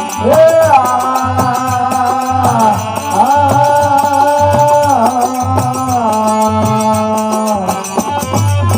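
Rajasthani bhajan music between sung lines: a melody of long held notes that slide from pitch to pitch, over a steady drum beat and the continual jingle of manjira hand cymbals.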